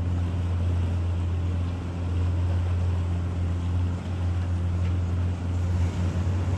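Pontoon boat's outboard motor running steadily at low throttle with a low hum, as the boat is driven up onto its trailer.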